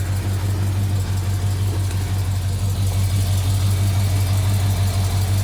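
1987 Chevy truck's engine idling steadily with an even low hum, still cold from a first-thing-in-the-morning cold start.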